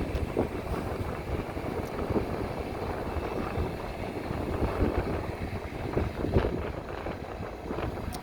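Wind buffeting the microphone: a rough, uneven rumble that rises and falls in gusts.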